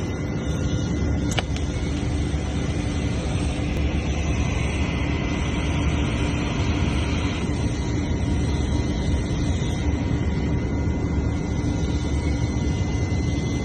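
Steady machine hum and rumble with a few fixed tones running throughout, joined by a hiss from about four seconds in that stops after about three and a half seconds.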